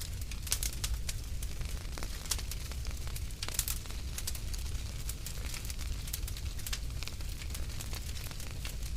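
Wood fire crackling in a fireplace: irregular sharp pops and snaps, a few louder ones about half a second, two and a half seconds and three and a half seconds in, over a steady low rumble of the flames.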